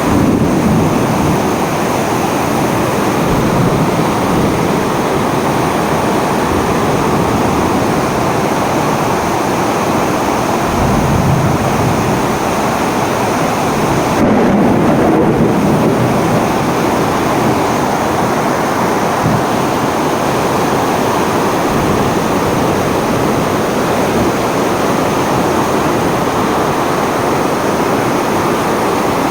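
Storm of wind and heavy rain making a steady, loud roar that swells briefly about fourteen seconds in.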